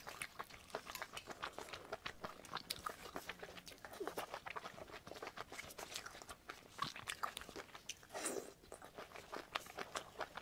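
Close-miked chewing of spicy seafood: a steady run of small wet clicks and crunches from the mouth, with a louder burst about eight seconds in.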